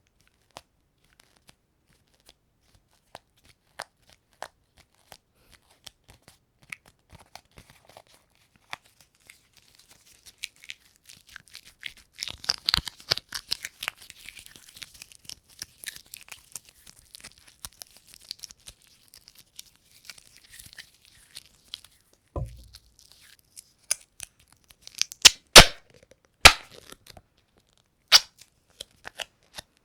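A sticky surface being pulled and peeled close to the microphone: scattered sticky clicks, then a long crackling, tearing run through the middle, and a few loud sharp snaps near the end.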